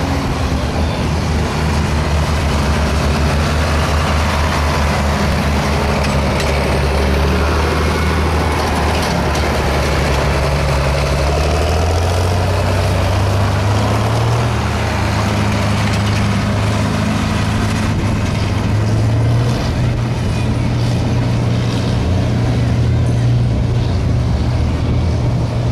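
1977 Ford F-350's stock gasoline engine running hard under heavy load while pulling a weight sled at a truck pull. Its pitch climbs about halfway through and rises a little further later on.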